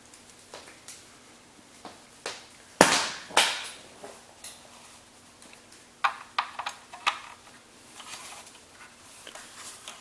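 Knocks and clicks from handling a ring light and its stand. There are two loud knocks about three seconds in and a quick run of clicks about six to seven seconds in, with a few fainter clicks scattered between.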